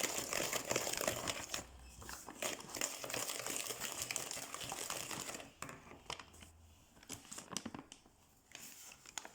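Crinkling and rustling handling noise full of small clicks, thinning out to a few scattered clicks after about five seconds.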